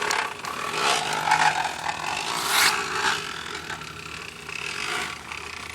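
Crushed aluminium soda can caught on a bicycle wheel, rasping and rattling against the frame as the bike is ridden, a rough buzzing scrape that swells and fades.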